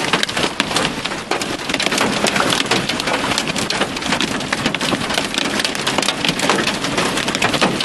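Hail and heavy rain pelting down: a dense, continuous patter of hard impacts.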